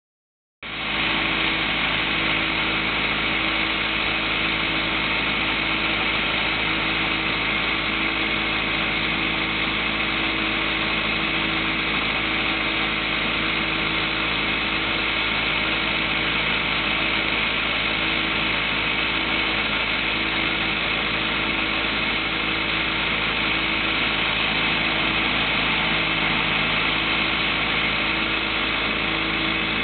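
Diesel engine of heavy street-digging equipment (a backhoe or dump truck) running steadily at a constant pitch.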